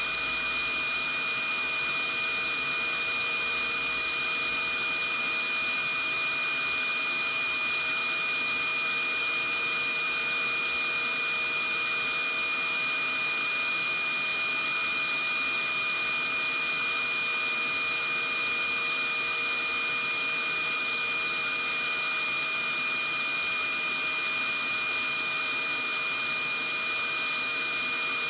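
Vacuum cleaner running steadily: an even, unchanging hiss with a steady high whine from its motor, looped as white noise to lull a baby to sleep.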